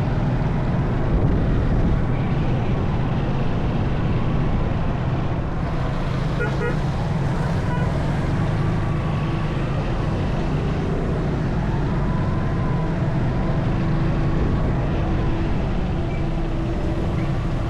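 Suzuki motorcycle engine running steadily in slow traffic, with the noise of surrounding vehicles.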